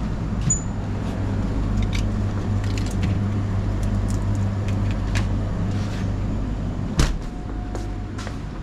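A steady low mechanical hum, with scattered light clicks and one sharp knock about seven seconds in.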